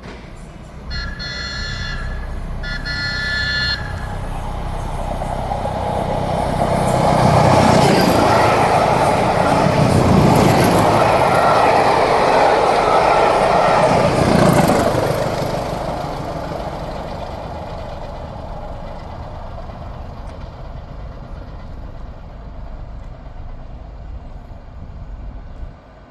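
Train horn sounded in two short blasts, then a train passing: a rumble that builds, is loudest for several seconds, and fades slowly away.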